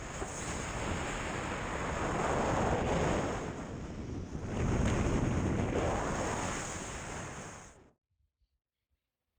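Wind buffeting the microphone, a rushing noise that swells in two strong gusts and then cuts off abruptly about eight seconds in.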